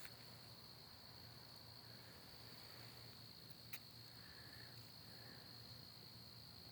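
Faint, steady high trilling of crickets, with one small click a little before four seconds in.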